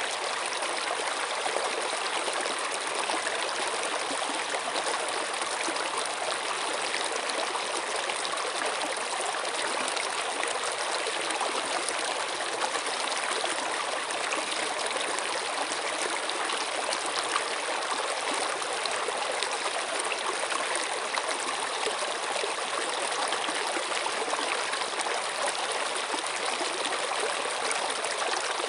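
Flowing stream water, a steady rush and trickle with no breaks.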